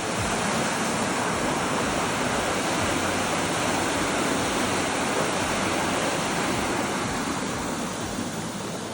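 Steady rushing of flowing water, a constant even roar with no break.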